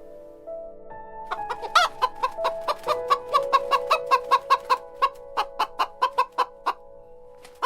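Chicken clucking in a quick run of short clucks, several a second, with one louder, drawn-out squawk about two seconds in, over soft background music.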